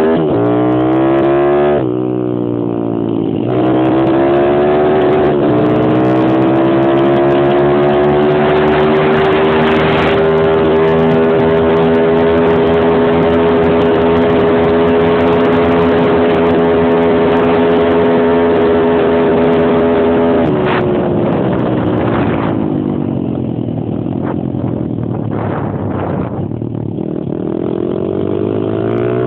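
Stomp Superstomp X140 pit bike's single-cylinder four-stroke engine under hard riding: revving up with a brief dip, then held at steady high revs for about fifteen seconds. About twenty seconds in it falls away off the throttle and runs lower and unevenly, then revs up again near the end.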